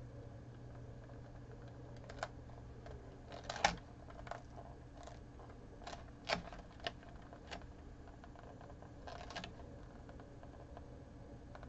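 Scattered light taps and clicks from vinyl sheet being handled and pressed onto a canvas, a dozen or so at uneven intervals with the sharpest around a third and halfway in, over a steady low hum.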